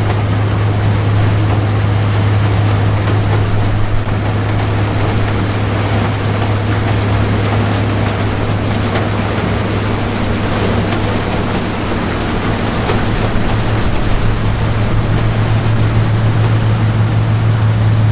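John Deere 105 combine harvesting corn: a steady low engine drone under the continuous noise of its harvesting machinery.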